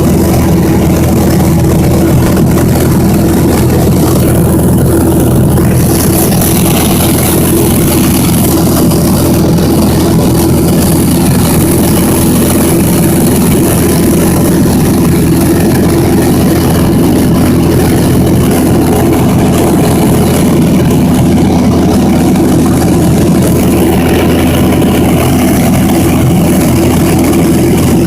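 Small airplane's engine and propeller droning loudly and steadily in flight, heard from inside the cabin.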